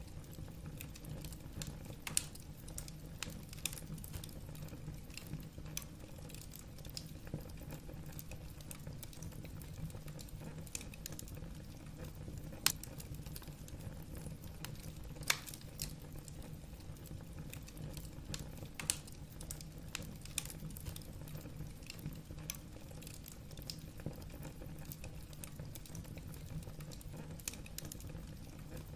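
Firewood crackling in a fireplace: irregular sharp pops and snaps, a few louder than the rest, over a steady low hum.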